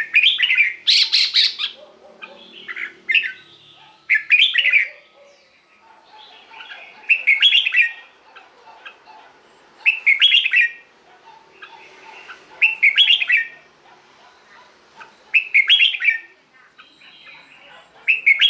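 Red-whiskered bulbul singing: short, bright whistled phrases, several in quick succession at first, then one about every three seconds.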